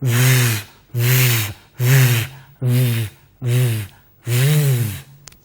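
A voice making the buzzing phonics sound for the letter V, 'vvv', six times in a row, each about half a second long: the noise of a van driving in the Jolly Phonics story.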